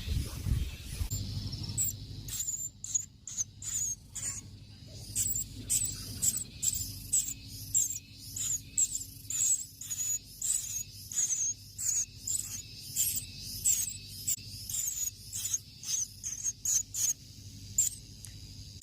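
Baby bird's begging calls: short, high, raspy cheeps repeated about twice a second, starting about a second in.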